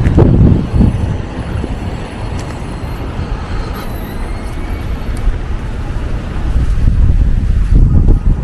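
City street traffic: a low, heavy vehicle rumble that swells at the start and again near the end.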